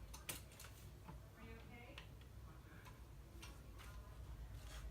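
Faint, scattered clicks of plastic LEGO pieces being handled and fitted together, about half a dozen light ticks spread over a few seconds.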